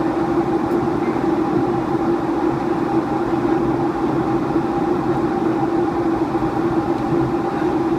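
Boeing 757 cabin noise in flight: a steady rush of engine and airflow noise with a constant low hum running through it.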